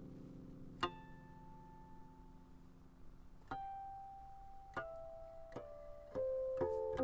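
Guqin (seven-string Chinese zither) being played: single plucked notes ring out and slowly die away, with long gaps at first, then the notes come quicker near the end.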